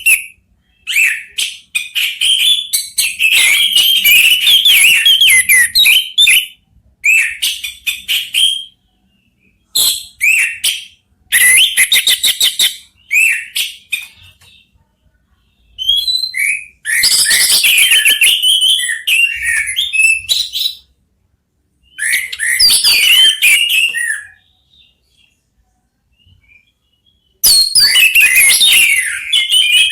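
Orange-headed thrushes (anis merah) singing in turn: rapid, varied phrases of whistles and chattering notes in loud bursts of one to several seconds, separated by short silences.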